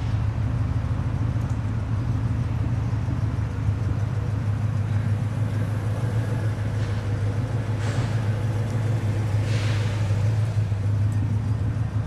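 Steady low rumble of the 1967 Cadillac Eldorado's V8 engine idling, with two brief hissy swells near the end.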